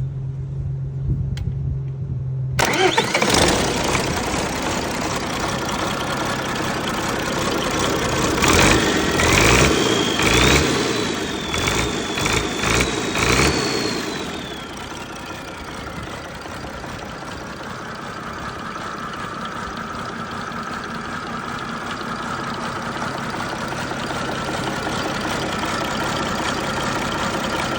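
Freshly rebuilt MMZ D-260 six-cylinder diesel of an MTZ-1523 tractor on its first start after the overhaul: a steady low hum, then the engine catches suddenly about two and a half seconds in. It is revved in several bursts with a high whine rising and falling, then settles to a steady idle.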